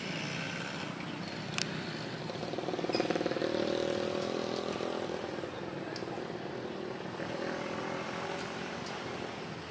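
A road vehicle's engine swells past and fades over a few seconds, over steady traffic noise and faint voices, with one sharp click early on.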